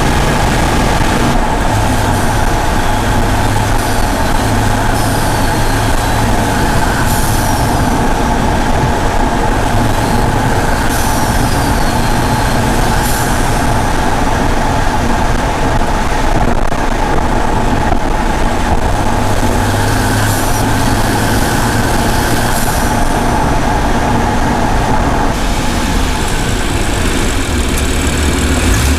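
BMW M235i's turbocharged 3.0-litre straight-six running under way, its exhaust note coming and going under a steady rush of wind and road noise. A few short falling whistles are heard.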